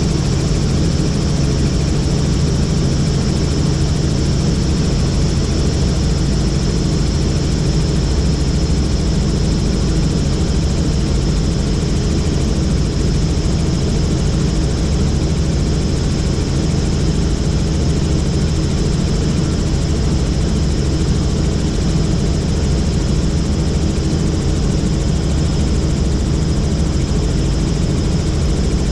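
Helicopter in flight: steady rotor and engine noise with a deep rumble and a faint high whine above it.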